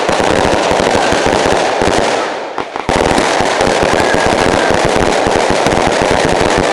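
Large bonfire burning with dense, continuous crackling and popping, which briefly drops away about two and a half seconds in.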